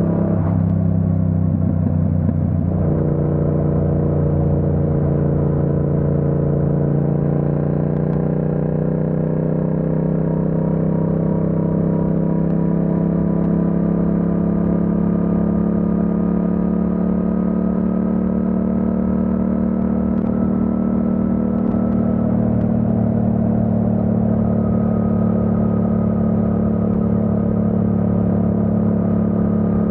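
Yamaha MT-07's parallel-twin engine under way at a steady cruise, its note changing about three seconds in and then its pitch creeping slowly upward.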